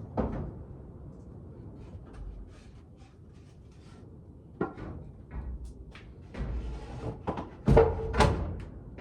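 Knocks and thuds of a tub and ears of corn being handled, with some rustling between; the loudest pair of thuds comes near the end.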